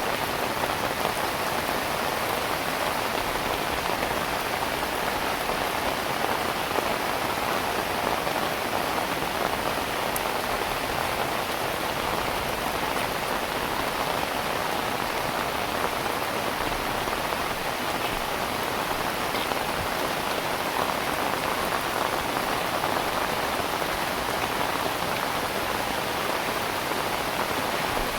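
Heavy rain falling steadily, a dense even hiss of drops on surfaces with scattered individual drop ticks.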